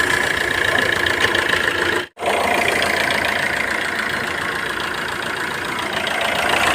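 Hyundai Creta diesel engine idling steadily after its timing has been set. The sound drops out for an instant about two seconds in.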